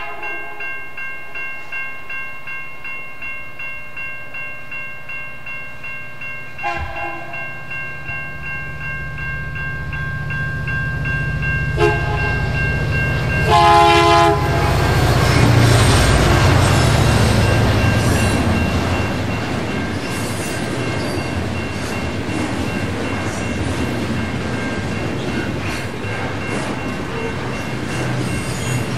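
Railroad crossing bell ringing steadily as a train approaches. The locomotive horn gives a short blast about seven seconds in, another about twelve seconds in, and a longer, louder blast around fourteen seconds. The train then passes close by, its wheels rumbling and clattering on the rails.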